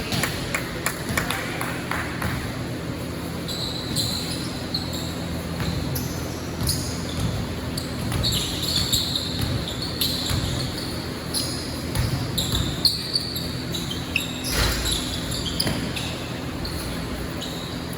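Basketball bouncing on a gym court during play, with repeated sharp thuds and short high squeaks scattered through.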